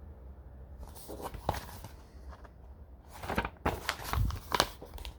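Handling noise: an irregular run of rustles and clicks starting about a second in, busiest and loudest in the last two seconds, over a faint low hum.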